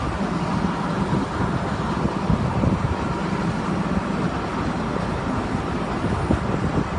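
Engine of a truck-mounted rotary-table water well drilling rig running steadily, a constant low mechanical rumble with a hum.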